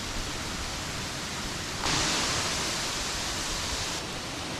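Waterfall's rushing water, a steady hiss; for about two seconds in the middle it turns louder and brighter, starting and stopping abruptly.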